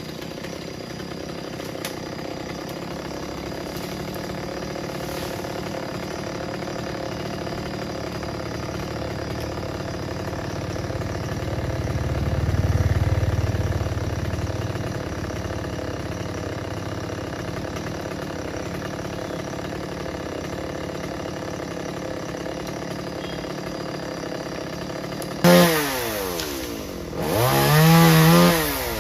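Chainsaw idling steadily, then revved hard twice near the end, its pitch sweeping up and falling back each time. A low rumble swells and fades about twelve seconds in.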